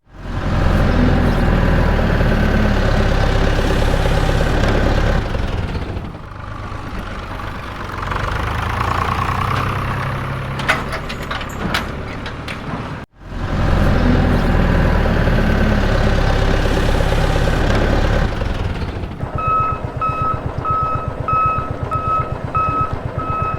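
A vehicle engine running steadily with a heavy low rumble, cut off sharply about halfway through and starting again. Over the last few seconds a reversing alarm beeps, about twice a second, over the engine.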